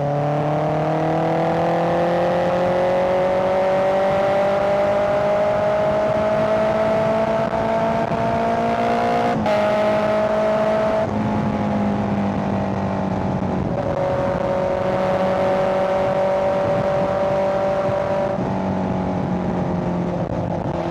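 Honda CBR650R's inline-four engine running under way. The engine note climbs slowly and steadily for about nine seconds, breaks sharply, then changes pitch a few more times before holding fairly steady near the end.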